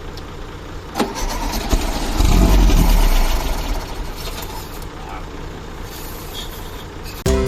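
1971 Volkswagen Beetle's air-cooled flat-four engine starting: a click about a second in, then the engine catches and runs loudest for about a second before easing to a steadier run.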